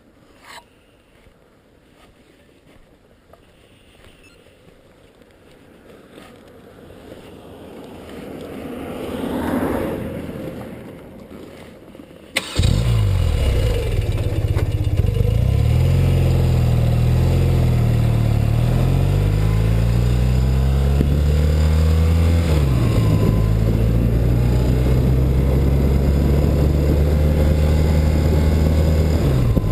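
A faint sound swells and fades during the first dozen seconds. Then, about twelve seconds in, the 1984 BMW R100RS's air-cooled boxer-twin engine starts suddenly and runs loudly, its revs rising and falling several times as the bike gets under way.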